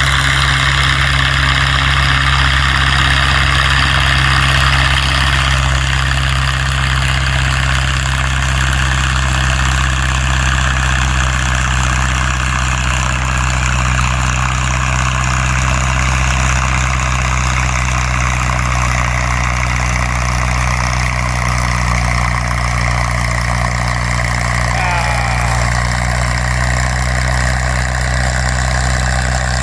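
Tractor engine idling steadily at an even pitch.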